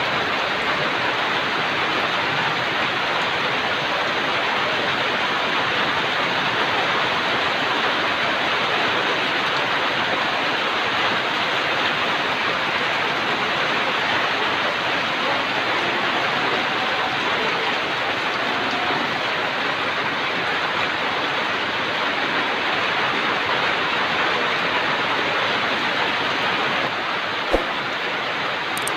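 Steady rain falling, an even hiss with no let-up, and one sharp tap near the end.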